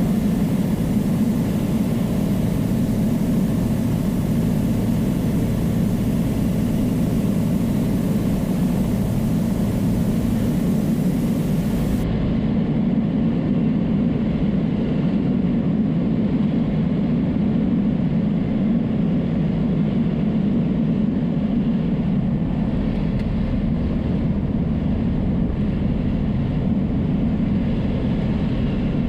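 Piper Cherokee's piston engine and propeller running steadily in cruise, heard as a constant low drone inside the cockpit.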